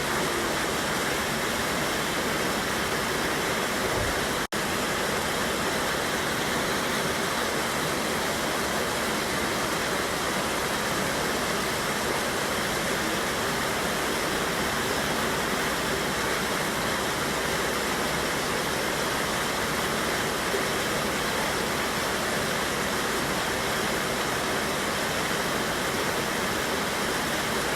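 Steady rushing of a waterfall on a mountain river, an unbroken even roar of falling water. About four and a half seconds in, the sound cuts out for a split second.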